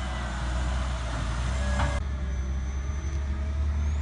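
Heavy diesel engines of a wheel loader and dump truck running steadily. A sharp knock comes just before the middle, and a hiss over the engines stops abruptly about halfway.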